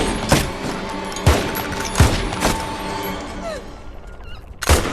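Gunshots in a film soundtrack: about six single shots at uneven intervals, each with a short ringing tail, over background music; the loudest comes near the end after a quieter stretch.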